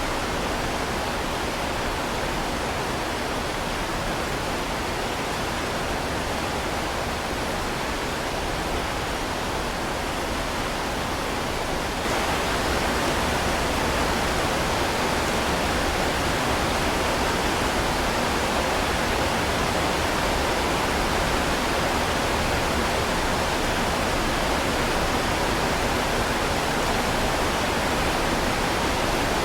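Heavy rain falling as a steady, dense hiss with no separate drops or thunder standing out. It gets a little louder about twelve seconds in and holds steady after that.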